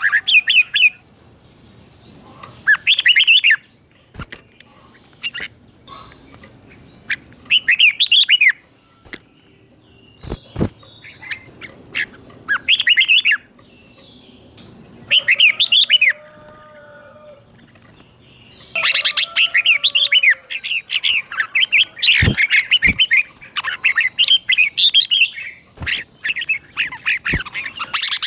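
Red-whiskered bulbul singing short, bright warbled phrases with pauses between them, then singing almost without a break through the last third. A few sharp taps are heard in between.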